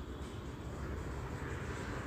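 Quiet, steady background hum and hiss: room tone, with no distinct sound events.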